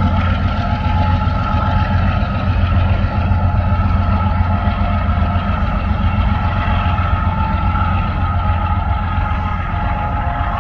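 Diesel freight train running away down the line: a steady low engine and wheel rumble with a few thin high tones over it.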